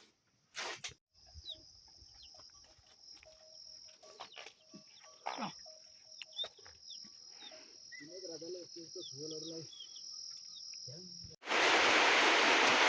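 A steady high-pitched drone of insects, with short bird chirps over it and a distant voice briefly near the middle. About eleven and a half seconds in it cuts suddenly to loud, steady rushing water.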